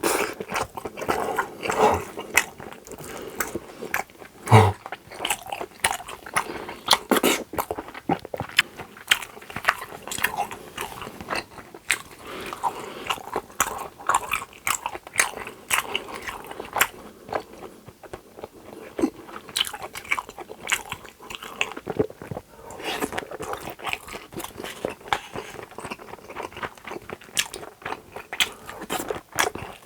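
Close-miked eating: steady chewing and biting with many wet mouth clicks and smacks and occasional crunches, and one louder knock about four and a half seconds in.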